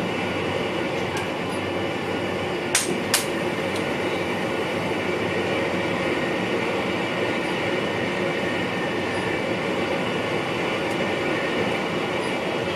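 Steady running noise of an NS VIRM double-deck electric train, heard inside the driver's cab while under way. Two sharp clicks come close together about three seconds in.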